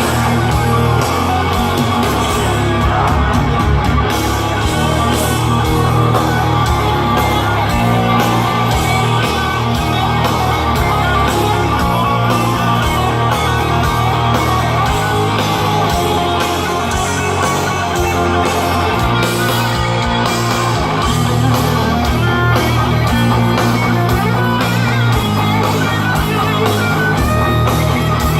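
Heavy metal band playing live at full volume: distorted electric guitars over bass and drums with a steady driving beat.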